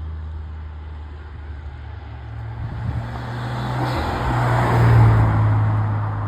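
Car engines running at low revs with a steady low drone. Another car builds up and drives past, loudest about five seconds in, then fades away.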